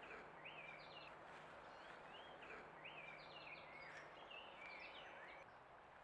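Faint songbird song: a string of short slurred phrases, each rising and falling in pitch, following one another every half-second or so, over a steady outdoor hiss.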